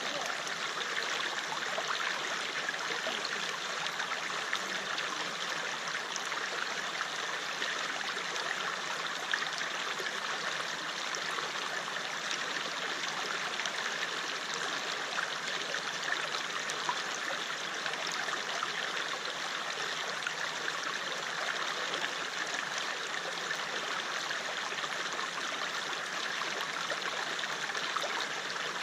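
River water flowing and splashing in a steady rush, with fine trickling and gurgling over stones.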